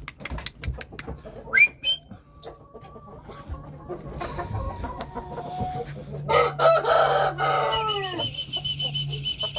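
A rooster crows once, starting about six seconds in, one long call that falls in pitch at its end. Chickens cluck and call quietly before it, and a high pulsed whistle-like note follows the crow.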